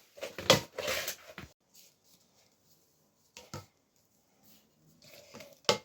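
A few light clicks and knocks of handling: a cluster in the first second and a half, a single one about three and a half seconds in, and a sharp click near the end, with near silence between.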